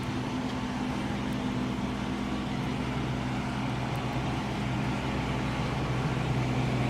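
A vehicle's engine running steadily with road noise, as in a car underway; the hum grows slightly louder near the end.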